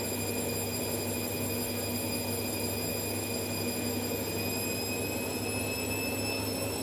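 Indesit washing machine on a fast spin: the motor whines steadily over a low hum, its pitch creeping slowly upward as the drum speeds up.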